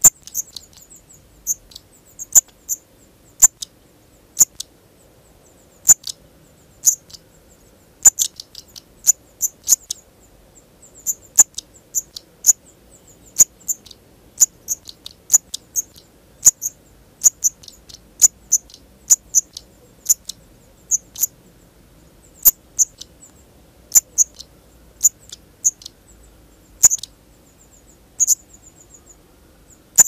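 Black redstarts calling: a long irregular series of sharp, high ticking calls, about one or two a second, with short thin high trills between them.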